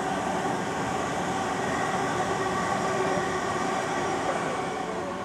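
A train passing close by on the line below, its wheels running over the rails in a steady, loud rumble that begins to fade at the very end.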